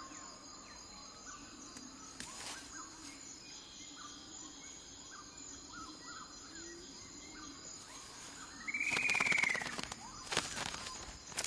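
Faint rainforest ambience with scattered small bird chirps. About nine seconds in there is a louder rustle with a short bird call that rises and falls, then further rustling a second later.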